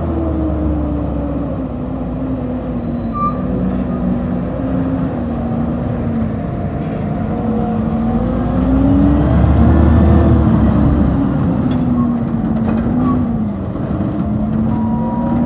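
Garbage truck engine running, its pitch rising and falling a little, then revving up and back down about two-thirds of the way through.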